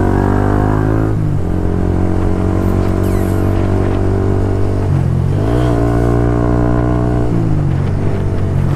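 150 cc motorcycle engine running under the rider, its note stepping in pitch as it changes speed, with shifts a little past a second in, a rise around five seconds and a drop around seven seconds.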